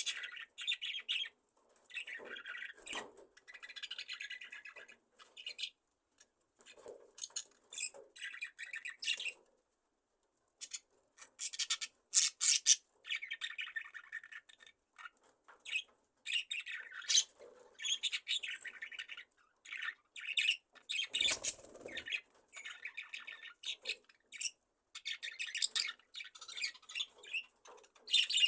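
A flock of budgerigars chattering and chirping in overlapping bursts, with short pauses, and a brief rustle about three quarters of the way through.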